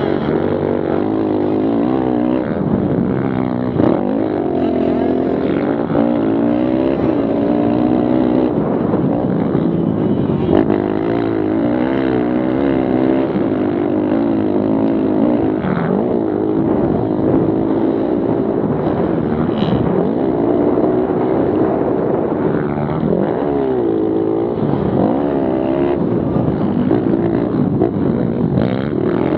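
Several small four-stroke pit bike engines racing, Kawasaki KLX110-class singles, their pitches overlapping and constantly rising and falling as riders work the throttle and shift through the gears.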